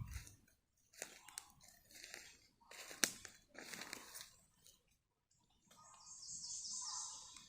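Footsteps crunching on the rain-soaked forest floor, about one step a second through the first five seconds. Then, about six seconds in, a bird gives a high, rapid trill lasting about a second.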